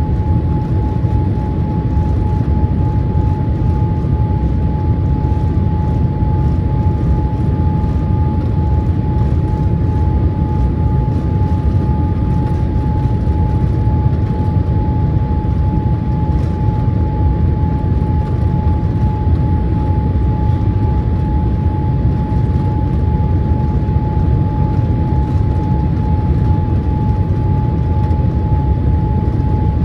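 Steady cabin noise inside a Boeing 787-8 airliner on final approach: a constant low rumble of airflow and engines with one steady whine held at a single pitch.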